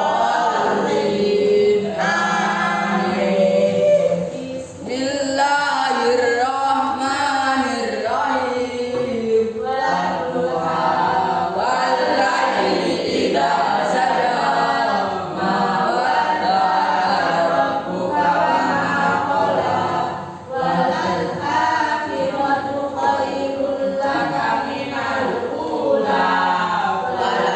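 A group of voices reciting together in a chanted unison, most likely the class continuing its opening prayer aloud, with only two brief pauses for breath.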